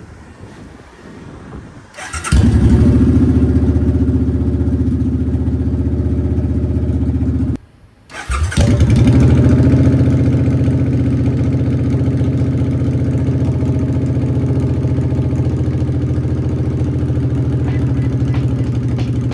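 Suzuki Boulevard M50's 805 cc V-twin engine started about two seconds in and running steadily after an oil change. It cuts out suddenly near the middle, is started again within a second, and settles back into a steady idle.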